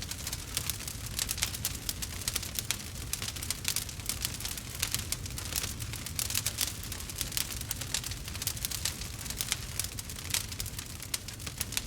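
Campfire crackling: dense, irregular pops and snaps over a low, steady rumble.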